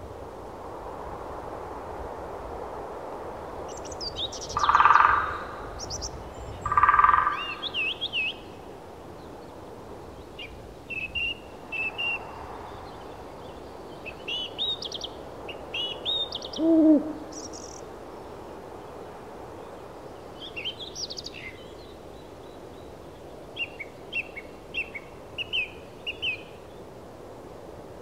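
Birds calling over a steady soft rushing background: two loud calls about five and seven seconds in, a short falling call a little past the middle, and scattered high chirps and twitters in between.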